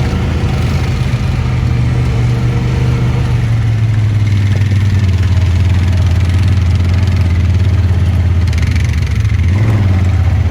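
ATV engine running under way, a steady low drone that eases slightly a few seconds in and dips briefly near the end.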